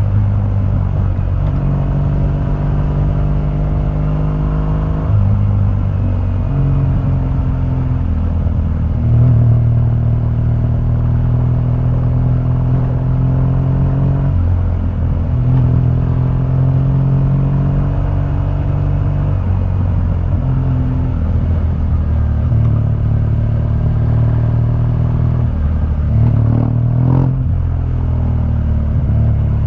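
2015 BMW R1200GS boxer-twin engine running through its stock exhaust while riding. The engine note climbs and then steps to a new pitch every few seconds, as with gear changes.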